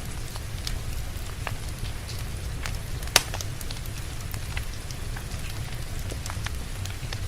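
Wood fire crackling in a fireplace, with scattered small pops and one sharp, loud pop about three seconds in, over steady rain and a low rumble.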